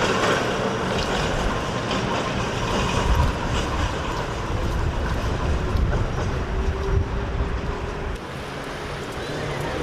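Tram running along the street track, a steady rumble with scattered clicks from the wheels over the rails, easing off a little near the end.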